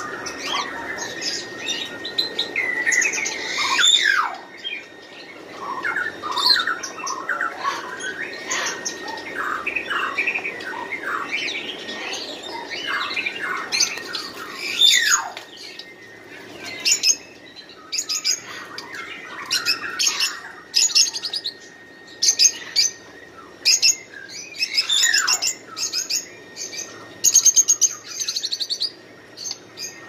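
Many caged birds chirping at once, a dense overlapping chatter of short calls. Three times a loud call sweeps steeply down in pitch. A steady high tone runs underneath.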